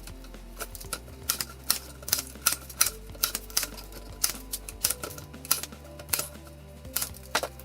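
Quick, irregular sharp clicks and taps, a few a second, from hand work on a picture frame and its hanging wire, over quiet background music.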